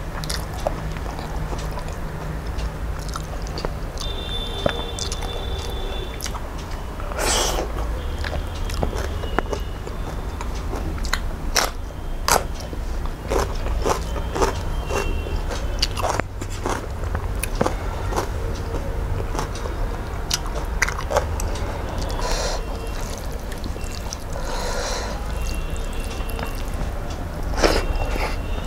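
Close-miked eating sounds: chewing with wet lip smacks and sharp mouth clicks as rice and curry are eaten, over a steady low hum.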